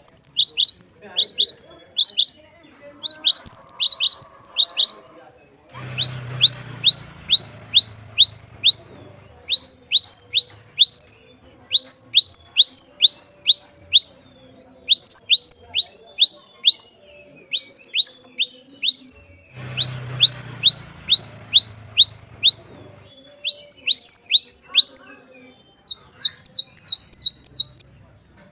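A cinereous tit (gelatik batu) singing loud, rapid runs of high, sharp notes, each sweeping downward. The runs last a second or two, with short pauses between them. A faint low hum comes in twice beneath the song.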